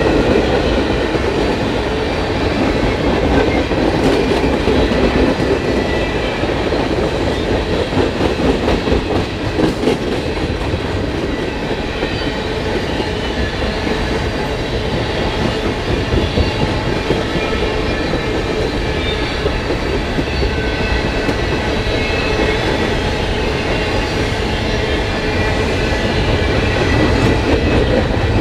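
Freight train cars rolling past, a steady loud rumble of steel wheels on rail with faint high-pitched tones from the wheels.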